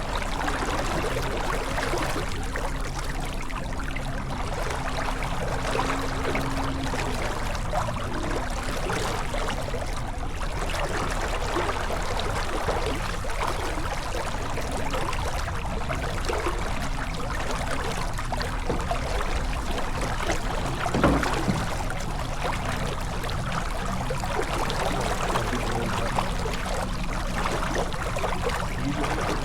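Water washing along the hull of a J/24 sailboat under way, an even rushing with a faint steady low hum underneath. There is one brief knock about two-thirds of the way through.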